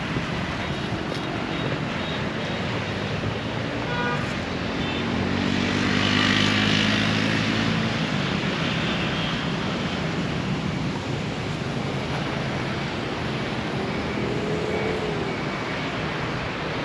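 City street traffic: a steady hum of passing vehicles, with one engine passing close and loudest around six or seven seconds in. A short horn toot sounds about four seconds in.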